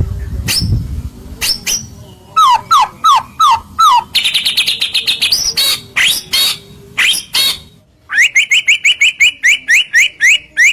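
White-rumped shama (murai batu) singing a loud, varied song. It begins with a run of quick downward-slurred whistles, then dense phrases, and from about eight seconds in a fast rattling series of short rising notes. A low rumble sounds under the first second.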